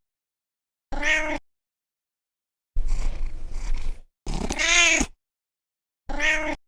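Domestic cat meowing: three separate meows that rise and fall in pitch, a short one, a longer one and another short one. A rougher, unpitched sound comes between them, about three seconds in.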